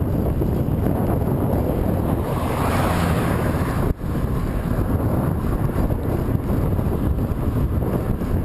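Strong wind buffeting the microphone of a camera on a bicycle being ridden into a headwind: a steady low rushing noise, with a momentary dropout about four seconds in.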